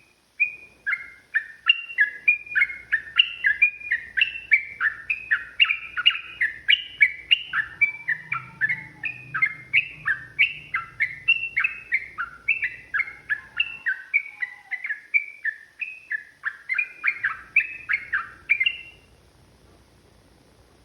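Yellow-vented bulbul (trucukan) singing a long, unbroken run of quick bubbly chirps, about three notes a second, which stops about two seconds before the end.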